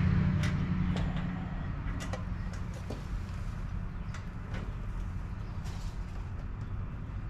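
Scattered light clicks and taps from hands working on engine parts, over a steady low hum.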